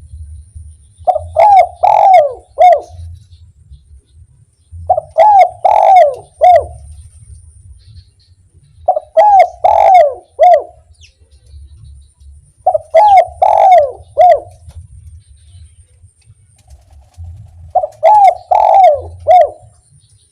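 Spotted dove (derkuku) cooing: five song phrases about four seconds apart, each a quick run of coos ending in a single separate 'kuk' note, the 'kuk 1' song type. A low rumble runs underneath, with a faint steady high tone.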